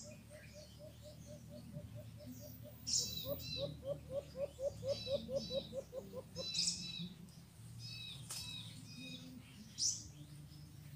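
Birds calling: a rhythmic series of low hooting notes, about four a second, that grows louder and stops about six and a half seconds in, over repeated groups of high, quick chirps.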